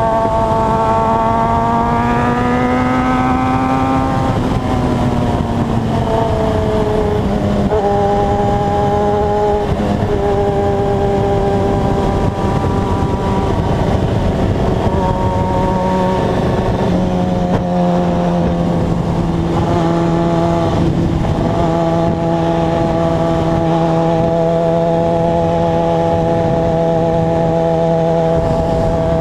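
Motorcycle engine under way while riding: it revs up over the first few seconds, drops in pitch in several steps as it shifts up through the gears, then holds a steady cruising note, with constant wind noise.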